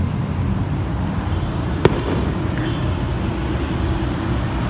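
Steady low city rumble with one sharp crack of a firework about two seconds in, during New Year fireworks.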